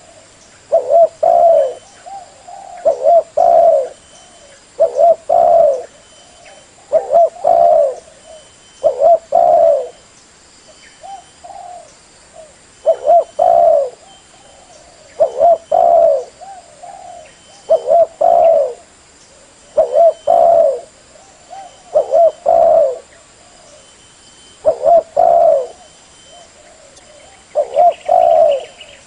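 Spotted dove (terkukur) cooing, a short phrase of two or three low coos repeated about every two seconds, as used to lure wild doves.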